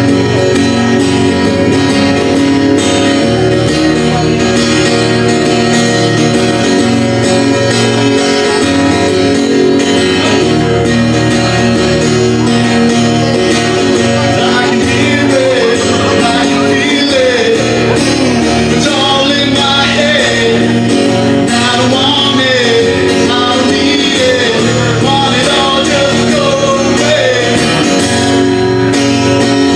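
A guitar played with a man singing over it; the sung melody is clearest in the second half.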